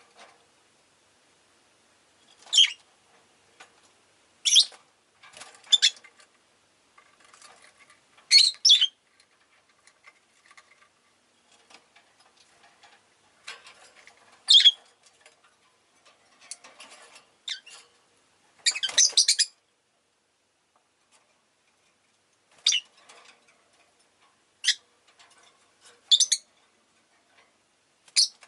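Rosy-faced lovebirds giving short, shrill, high-pitched calls at irregular intervals, about a dozen loud ones with softer chatter between, and a longer cluster of calls about two thirds of the way through.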